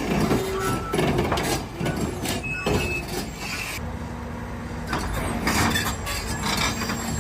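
Heavy truck running, with engine and road noise that is busy and knocking at first, then settles into a steadier low hum about four seconds in.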